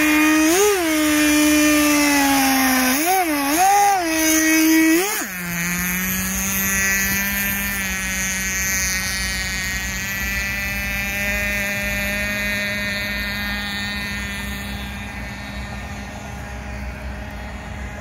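Small nitro (glow-fuel) engine of an RC boat running hard, blipped up in revs four times in the first five seconds. It then drops to a lower, steady pitch that grows gradually quieter.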